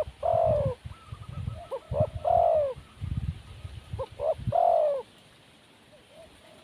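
Spotted dove cooing: three phrases about two seconds apart, each a couple of short notes and then a longer coo that falls in pitch.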